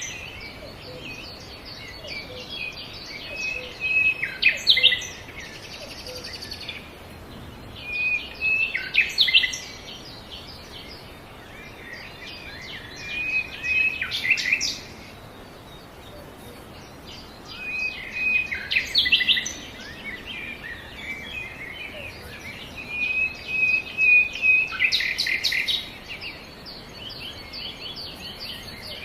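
Northern cardinal singing: a whistled phrase ending in a quick run of sweeping notes, repeated about every five seconds, with fainter chirping between phrases.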